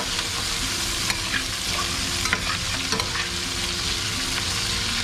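Vegetables (Irish potato, okra, carrot and pumpkin) sizzling steadily as they sauté in butter and oil in a pot, with a few light clicks scattered through.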